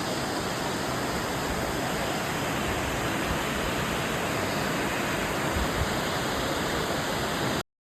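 Rushing waterfall: a steady, even wash of falling water that cuts off suddenly near the end.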